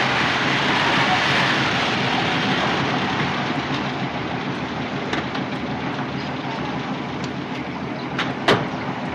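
A vehicle's steady rushing running noise on a film soundtrack, fading slightly, with a single sharp crack near the end.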